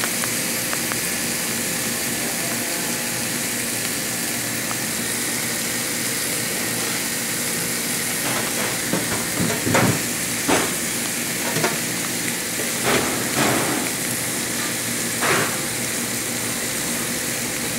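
Chicken strips and tomato halves frying in oil in a steel pan, a steady sizzle, with a few short knocks or clatters in the second half.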